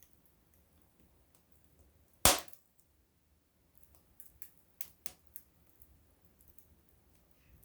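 Small wood campfire crackling: one loud sharp pop about two seconds in, then a quick run of smaller crackles a couple of seconds later.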